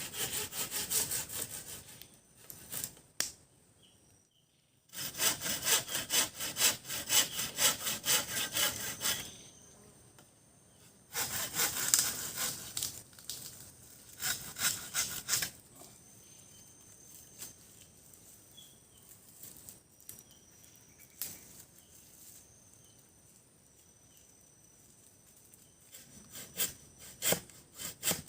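Wood being hand-sawn with quick back-and-forth strokes, in three main bouts separated by short pauses, with a brief burst of strokes again near the end.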